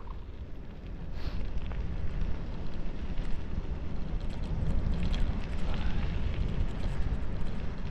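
Wind buffeting the microphone of a bicycle on a downhill run, a low uneven rumble.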